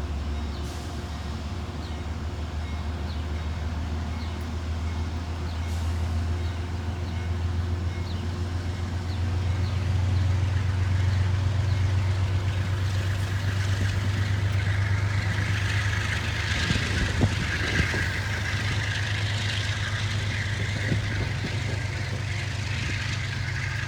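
Diesel train rumbling steadily on the approach. It gets louder about ten seconds in, and a rising hiss of wheels on rail comes up in the second half, with a couple of sharp clanks near the end.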